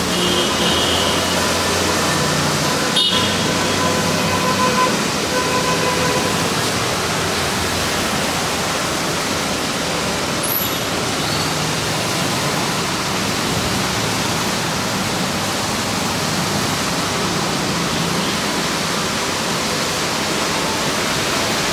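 Heavy rain pelting a flooded road, a steady hiss, with the tyres and engines of passing vehicles swishing through standing water.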